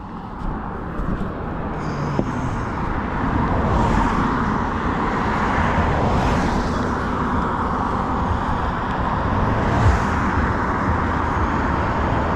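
Road traffic noise: a steady hum of cars going by, building up over the first few seconds and then holding, with faint swells as single vehicles pass.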